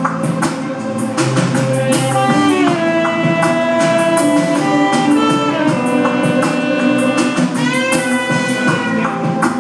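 Electronic music played live: a steady beat of sharp percussive hits under held pitched notes that slide up in pitch about two seconds in and again near the eight-second mark.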